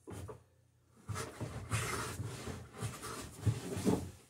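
Hand scraping and rubbing on a wooden rail, an irregular scratchy rasp with uneven strokes that starts about a second in and lasts about three seconds.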